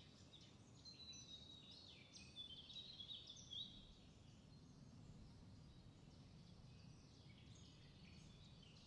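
Near silence, with faint bird chirps scattered through it.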